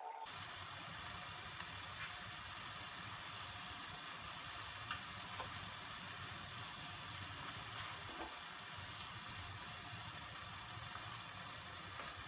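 Grated squash frying in an aluminium kadai over a gas flame: a steady, quiet sizzle with a low hum underneath and a few faint clicks.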